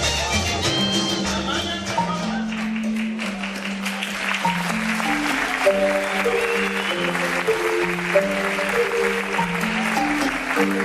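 Band music ends about two seconds in and the audience applauds. About halfway through, under the clapping, a marimba starts a melody of short, stepping notes.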